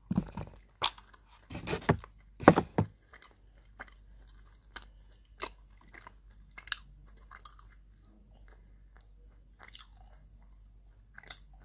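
A person chewing a crunchy chocolate-coated snack ball close to the microphone: loud crunches in the first three seconds, then quieter, sparser chewing.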